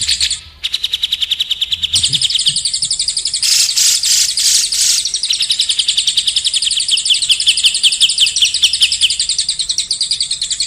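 Songbird trilling: fast runs of repeated, high, sharp notes, the rolling trill kind of song recorded as training audio for white-rumped shamas, with a harsher rasping stretch midway.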